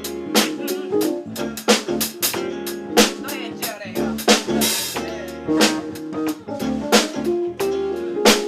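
Live band playing an instrumental break with no vocals: a drum kit keeping a steady beat under bass and guitar chords.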